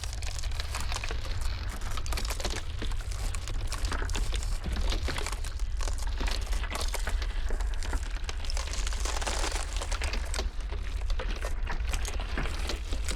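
Iceberg ice crackling and snapping in a dense, irregular run over a steady low blizzard wind rumble.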